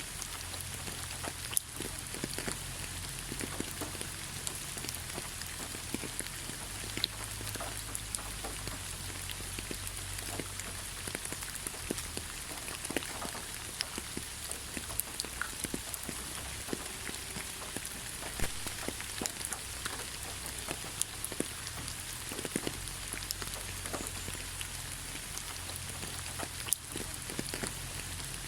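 Steady rain falling in a forest, with individual drops pattering and ticking on leaves and surfaces over a constant hiss of rainfall.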